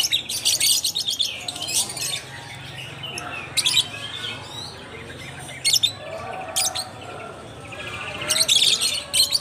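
A flock of caged lovebirds chirping, with bursts of rapid high chirps every second or two over quieter twittering.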